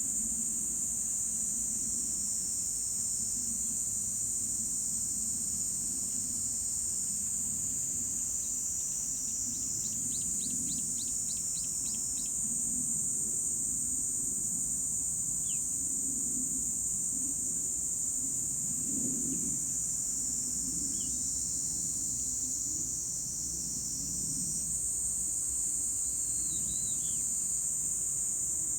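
Steady high-pitched chorus of insects singing without a break, with a few short bird chirps over it: a quick run of chirps about a third of the way in and a few single falling notes later.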